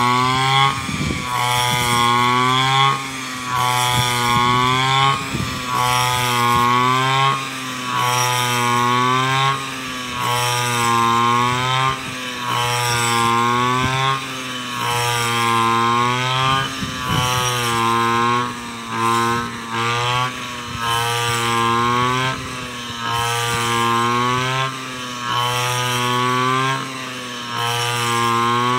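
Backpack brush cutter's small engine running at high revs with a rice-cutting blade, its pitch and loudness dipping and recovering about every two seconds as it takes load with each sweep of the blade.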